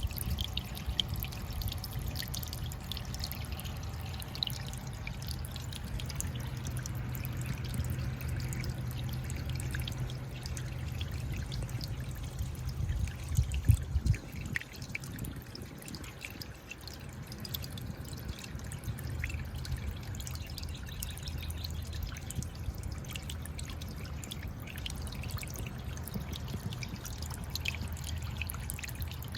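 Sea water washing and trickling among shoreline rocks, with many small splashes and drips over a low rumble of surf. A stronger wave surges in a little before halfway.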